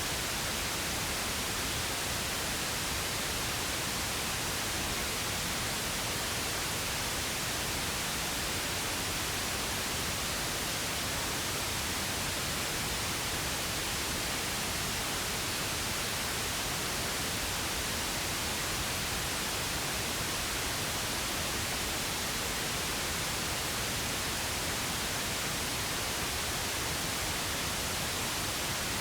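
Steady, unchanging pink noise: an even, synthetic hiss with no rhythm or tones in it.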